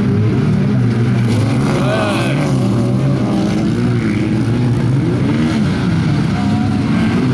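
Several stock car engines running together on a dirt track, their pitch rising and falling as the cars accelerate and lift off.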